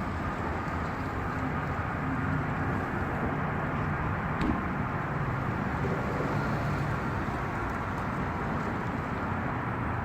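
Steady outdoor background noise with a low, vehicle-like rumble and no distinct events.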